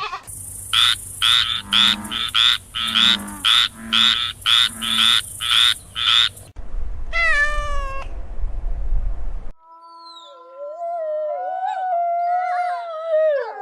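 A run of different animal calls, one after another. First comes a quick series of about eleven short, evenly spaced calls, then a short falling cry, then a long, wavering howl with several voices overlapping.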